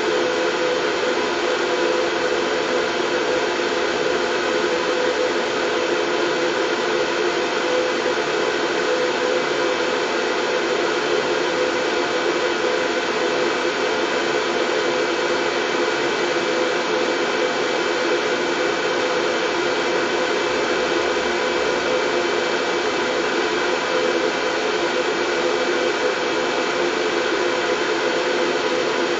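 Steady, unchanging white noise: a continuous even rush with a faint hum running through it, like an appliance such as a hair dryer.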